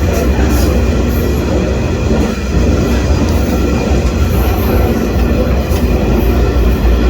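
Freight train running, heard from aboard a car: a loud, steady rumble of wheels on rail, with faint high squeaks now and then.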